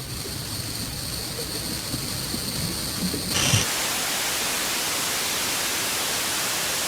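Low rumbling noise under thin, steady high-pitched whines; about three and a half seconds in it breaks with a short jolt into steady white-noise static hiss, like a tape running out to a blank screen.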